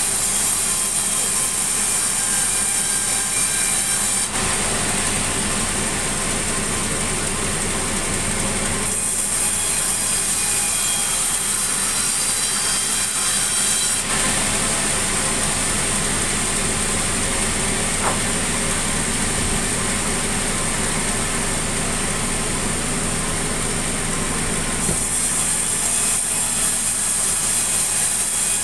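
Sawmill saw running steadily and cutting through sengon wood, a loud machine hum under a high, hissing cutting sound that grows and fades every few seconds as the cut goes on.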